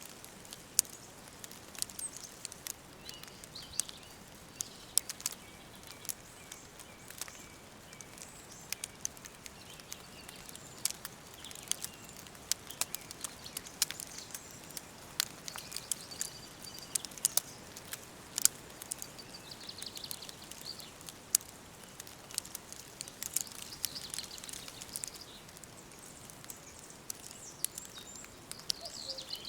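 Wood fire crackling with irregular sharp pops, over a low hiss, with faint birds chirping in the background.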